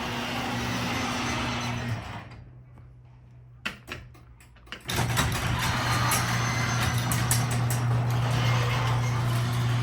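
LiftMaster 3255M garage door opener running with a steady motor hum as it moves a 16x7 door, stopping about two seconds in. Two sharp clicks follow, then the opener starts again about five seconds in and runs steadily.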